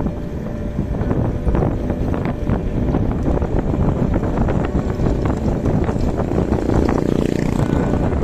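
Strong wind buffeting the camera microphone: a loud, uneven rumble with crackling gusts.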